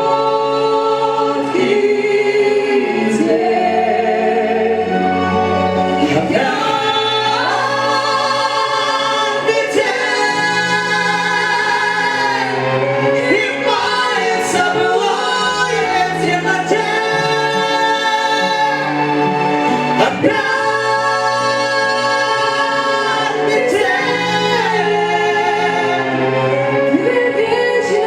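Vocal music: singers hold long sustained notes, some with vibrato, over a backing track with a steady bass line.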